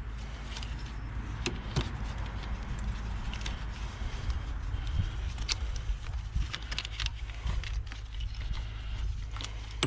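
Scattered small clicks and light metallic rattles of hands working at a fuel line and parts in an engine bay, over a steady low hum.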